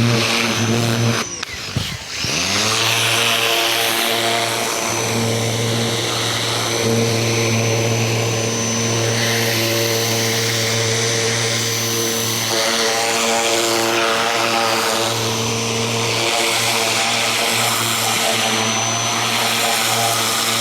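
Ryobi 2000 PSI electric pressure washer running steadily, its pump motor humming under the hiss of the water jet. About a second and a half in, the motor briefly winds down and starts up again.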